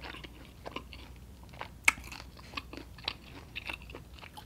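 Close-miked mouth sounds of chewing a chicken wing: scattered small crunches and clicks, with one sharp crunch about two seconds in.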